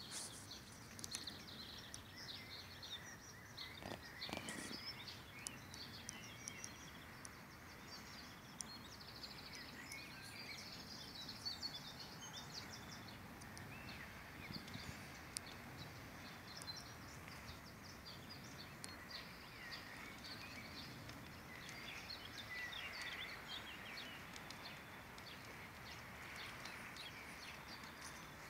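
Songbirds singing and chirping, many short twittering calls, over a low steady outdoor background noise.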